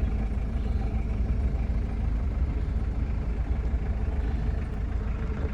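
Turbo-diesel engine of a 1986 Mitsubishi Pajero idling, a steady low rumble.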